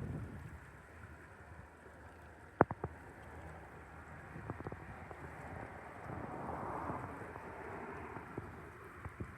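Steady outdoor wind and water noise with a single sharp knock about two and a half seconds in and a few fainter clicks later.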